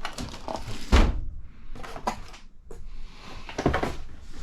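Knocks and clatter of hand tools and small shock parts handled on a workbench. A solid thump about a second in is the loudest, with lighter knocks around two and four seconds.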